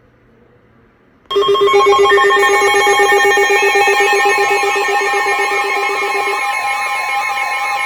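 Weather alert radio alarms sounding together, starting suddenly about a second in: a rapid-pulsing beep, steady tones and a warbling tone layered over each other. The alarm signals a newly issued warning coming over NOAA Weather Radio.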